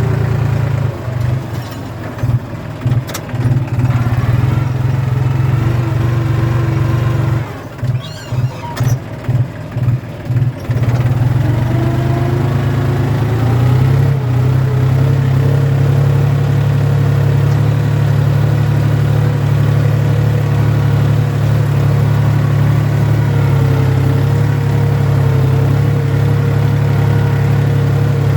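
Tractor engine running under plowing work, uneven and dipping briefly in the first third, then revving up about halfway through and holding a steady higher speed.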